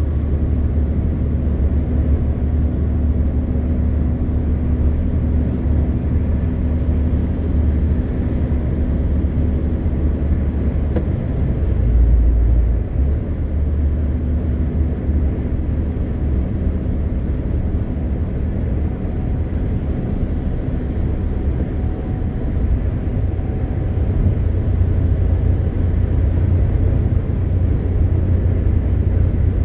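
A MAN TGX 520 truck's six-cylinder diesel running under way, a steady deep drone mixed with road noise. There is a brief heavier low rumble about twelve seconds in.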